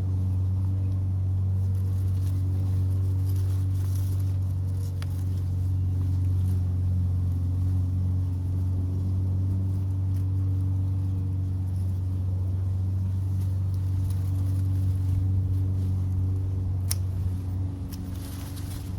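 Steady low machine hum, like an engine or motor running without change, with faint rustling and a few light clicks over it.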